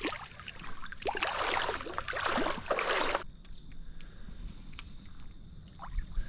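Creek water splashing and sloshing for about two seconds, stopping sharply about three seconds in, over a steady high-pitched insect drone.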